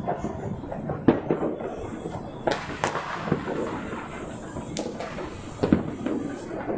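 Fireworks and firecrackers going off: a continuous crackle with several sharp bangs, the loudest about a second in and again near the end.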